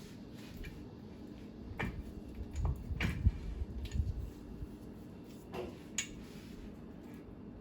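Scattered clicks and clunks of metal parts and tools being handled during stern-drive reassembly, with a cluster of dull knocks and one sharp knock about three seconds in.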